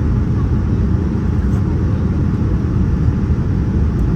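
Steady low rumble of a Boeing 787-9 heard from inside the cabin: engine and airflow noise, even in level throughout.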